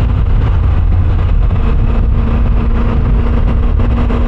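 Motorcycle cruising at a steady speed: a steady engine hum under heavy wind rush on the rider's microphone.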